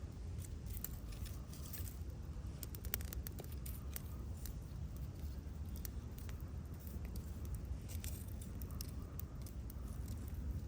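Wood campfire crackling: irregular sharp pops and ticks scattered throughout, over a steady low rumble.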